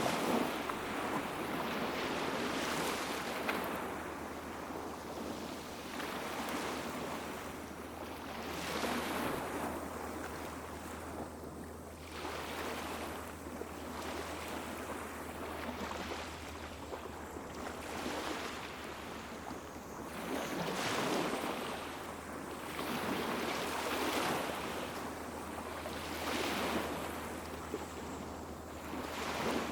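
Small waves washing onto a beach, a swell of surf every few seconds.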